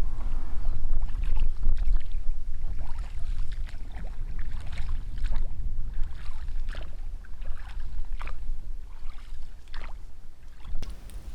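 Oars of an inflatable PVC boat dipping and splashing in irregular strokes, over a steady low rumble. The sound changes near the end.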